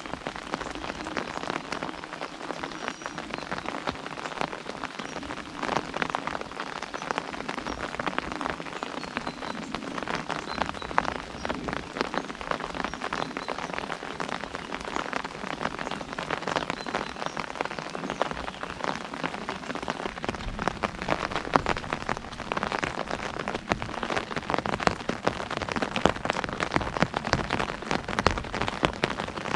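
Steady rain pattering on an umbrella canopy, a dense mix of many small drop taps with scattered louder ones.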